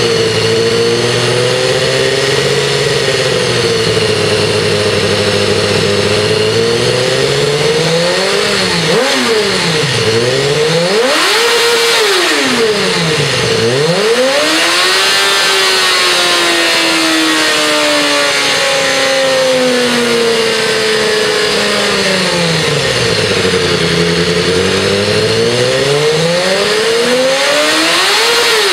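2012 BMW S1000RR's inline-four engine, breathing through a freshly fitted Graves titanium slip-on exhaust, revving up and down repeatedly. Its pitch rises and falls in several sweeps, with a crisp note.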